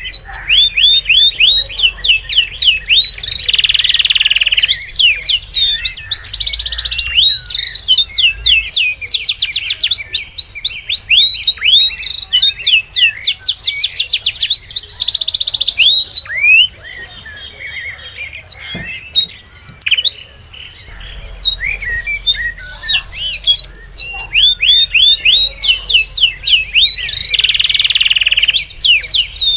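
Small birds chirping and trilling in quick runs of rising and falling notes. The chirping thins out for a few seconds a little past the middle, then picks up again.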